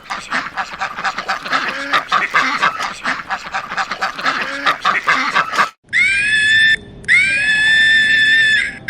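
A flock of ducks or geese quacking and honking in a rapid, overlapping chatter. It cuts off almost six seconds in, and two long, high-pitched animal calls, each about a second long, follow.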